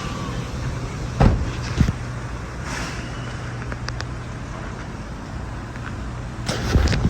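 Ford 5.4L V8 engine in a 2013 E350 van, running at a steady idle. There are a couple of sharp knocks a little over a second in.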